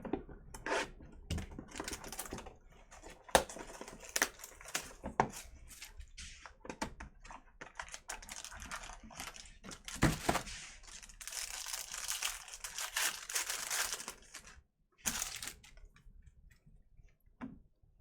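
Trading card packaging being torn open and crinkled, with scattered clicks and taps from cards and packaging being handled. Near the end there is a longer run of continuous tearing and crinkling.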